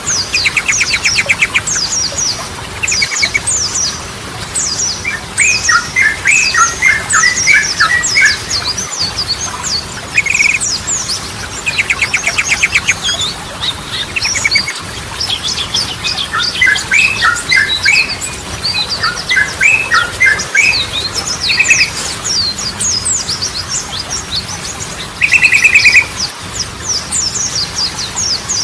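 Yellow-vented bulbul song: phrases of quick bubbling notes and short rattling trills that recur every few seconds, over a constant twitter of quick high chirps.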